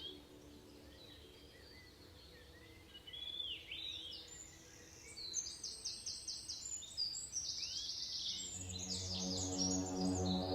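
Birds calling: repeated upward-curving chirps and, from about five seconds in, fast rattling trills. A low, sustained ambient music drone comes in about eight and a half seconds in.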